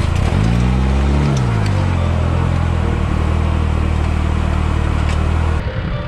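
An off-road vehicle's engine revs once, its pitch rising and falling back about a second in, then runs steadily at a lower pitch. The sound changes abruptly near the end.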